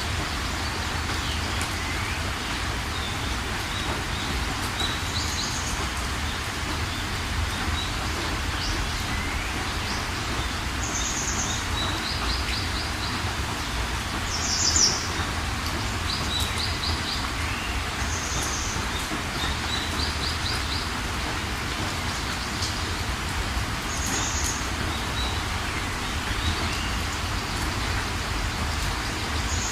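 Steady rain hiss with songbirds calling over it: a short high call repeating every few seconds, quick trills of four or five notes, and one louder call about halfway through.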